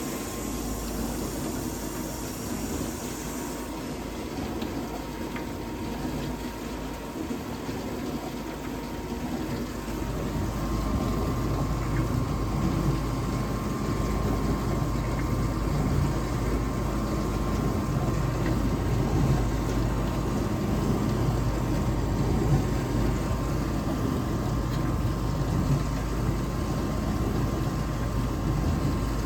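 Vintage dishwasher running its wash cycle: a steady pump-motor hum with water churning, growing louder with a thin steady whine about ten seconds in. The owner suspects the pump is restricted, as the water no longer hits the tub at full force.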